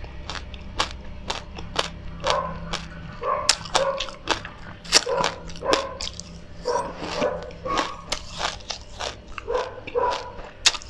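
Close-up chewing of a mouthful of raw black sesame seeds: a dense run of crisp crunching clicks, with short squeaky mouth sounds mixed in.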